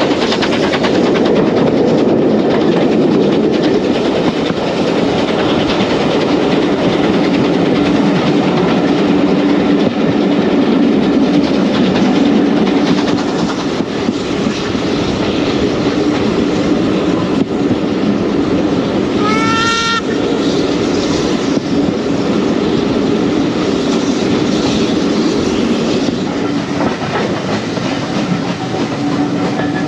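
Heritage passenger train running along the track with a steady rumble and wheel clatter. A short, whistle-like call from the locomotive sounds about twenty seconds in.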